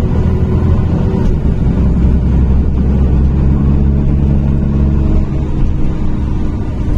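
NefAZ-5299 city bus engine running under way, heard from inside the passenger cabin as a steady low drone that eases slightly about five seconds in.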